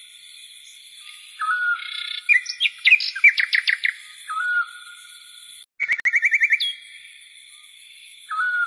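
Birds calling: a short whistled note repeats every few seconds, with two runs of fast chirping trills in between.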